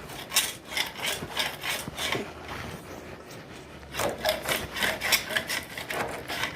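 Rapid back-and-forth scraping, about three strokes a second, as old silicone is cleaned out from inside a shower sliding door's frame channel; the strokes ease off for about a second and a half in the middle, then resume.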